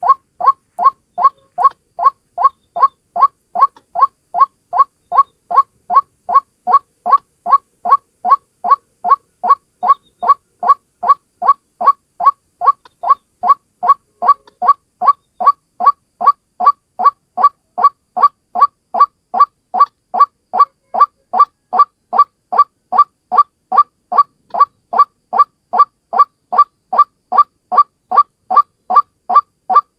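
White-breasted waterhen (ruak-ruak) calling a single note over and over, about two a second, at a steady, unbroken rhythm. It is a monotonous lure call of the kind used to draw the bird in.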